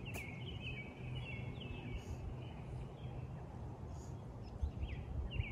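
Songbirds chirping: short downward-sliding notes repeated several times a second, over a steady low rumble of wind on the microphone.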